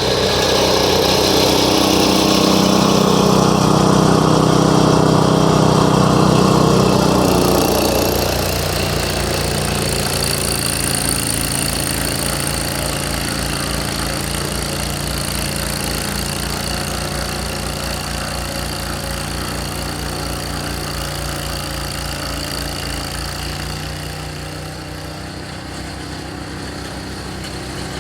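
Snowblower's 6.5 hp, 208 cc single-cylinder four-stroke engine running steadily while clearing snow. It is louder for about the first eight seconds, then steadier and somewhat quieter.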